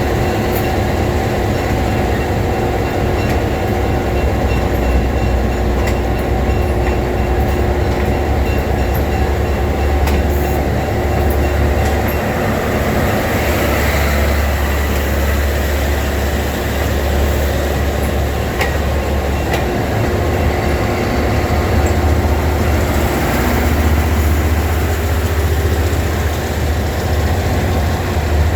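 A train running on rail, a steady heavy rumble with scattered short clicks from the wheels and track.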